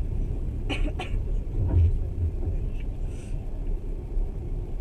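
Passenger train running along the track, heard from inside the carriage as a steady low rumble, with two sharp clicks close together about a second in.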